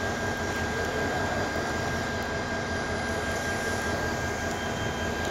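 Bangladesh Railway passenger coaches rolling past on the track: a steady rumble of wheels and running gear, with a thin steady high whine over it.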